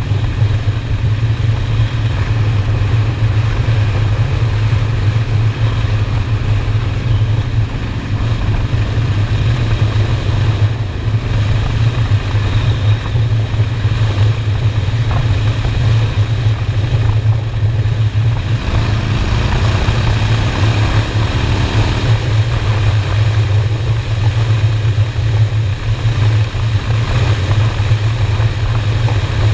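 Honda Shadow V-twin motorcycle engine running steadily at cruising speed. It holds a deep, even note, with a rising note between about 19 and 22 seconds.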